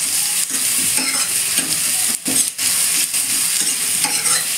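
Chopped onion, ginger and garlic sizzling in hot oil in a stainless steel kadai, with a steel ladle stirring and scraping against the pan.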